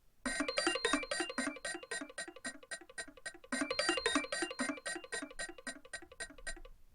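Nokia 3560 ringtone: a fast electronic melody of short, bright beeping notes, the same phrase played twice before it stops near the end.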